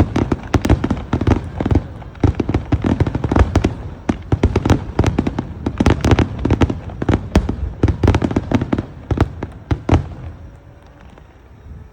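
Dense barrage of aerial fireworks shells bursting, several bangs a second, which stops about ten seconds in.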